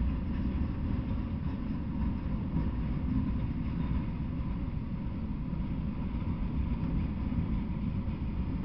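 Freight train of enclosed autorack cars rolling past: a steady low rumble of the cars on the rails.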